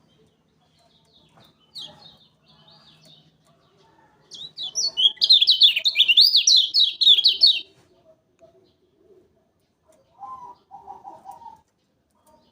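Kecial kuning songbird singing: a few soft high chirps, then a loud, fast, rapidly warbling phrase of about three seconds, and near the end a short run of lower-pitched chattering notes.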